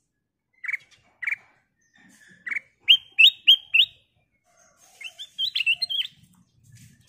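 Black-crested bulbul singing: a few single short whistled notes, then a quick run of four rising notes about three seconds in, and a fast jumbled phrase about five seconds in.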